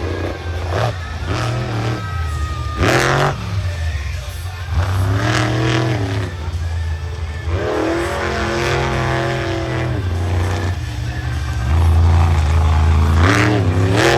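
Monster truck engine revving hard, its pitch climbing and falling several times as the throttle is worked. It is loudest near the end.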